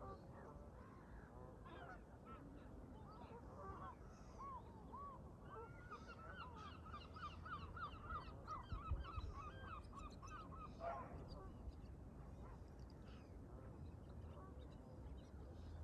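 Canada geese honking faintly, a quick run of repeated honks at about three a second from a few seconds in until past the middle, with scattered honks before and after over a low steady rumble.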